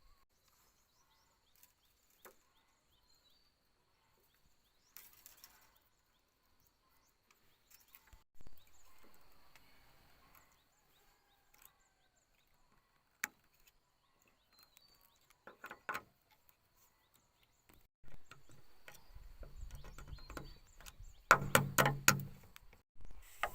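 Scattered knocks and clatters with long quiet gaps between them: a single sharp click partway through, and a tight cluster of loud sharp knocks a couple of seconds before the end.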